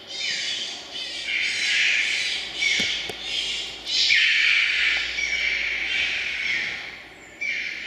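A flock of red-billed choughs calling: a string of harsh, downward-sliding squawks, several overlapping.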